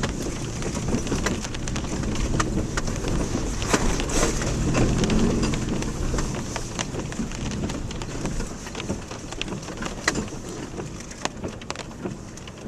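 Subaru Outback rolling over a rough, rocky dirt road: tyres crunching on gravel with a rumble, and many small clicks and knocks from stones. The sound eases off somewhat in the second half.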